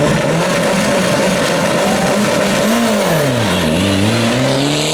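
Rally car engine running hard at high revs, the revs briefly rising, then dropping sharply about three seconds in and climbing again, over a steady rush of noise.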